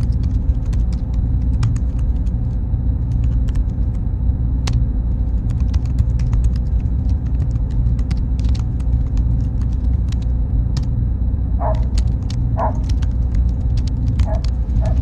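Server-room ambience: a steady low machine rumble with a faint steady whine, broken by scattered small clicks. A few short faint chirps come near the end.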